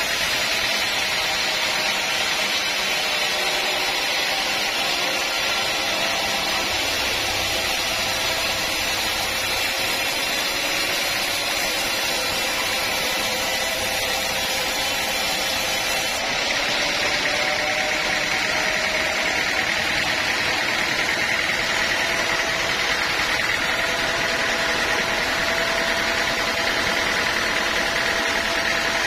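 Sawmill saw and its drive running steadily, a continuous mechanical whine over noise, with the pitch drifting slightly as the load changes. The higher part of the whine grows a little stronger past the middle.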